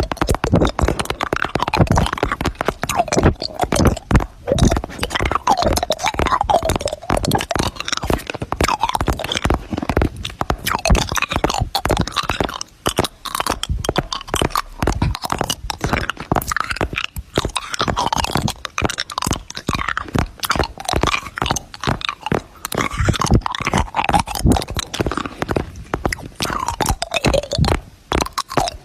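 A fast, unbroken jumble of crunchy clicks and short squeaky sliding tones, like weird sound effects chopped together in an edit.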